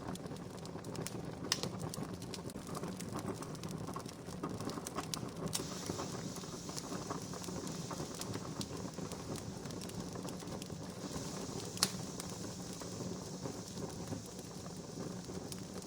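Wood fire crackling steadily, with scattered small pops and two sharper, louder pops, one about a second and a half in and one near twelve seconds.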